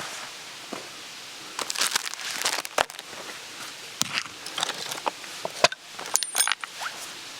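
Things being handled: bursts of rustling and crinkling with scattered small clicks and knocks, two sharper knocks about three and five and a half seconds in.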